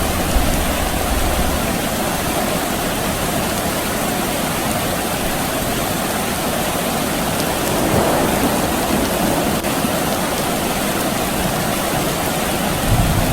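Steady rain falling, an even hiss with a slight swell about eight seconds in. A low rumble fades away in the first second and comes back near the end.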